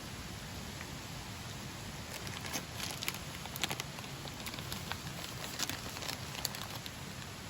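Wood fire crackling in a campfire pit, with scattered sharp pops over a steady hiss.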